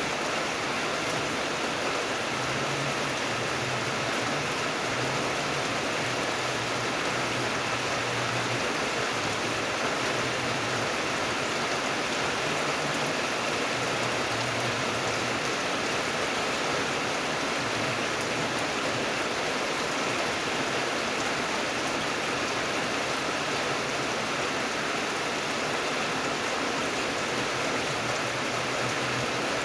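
Steady rain falling without a break, an even hiss of drops with a faint low rumble beneath.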